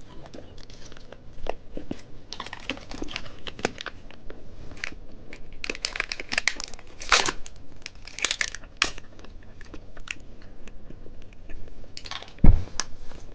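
Plastic wrapper of a chocolate candy being crinkled and torn open, in many short irregular crackles. A single loud thump comes near the end.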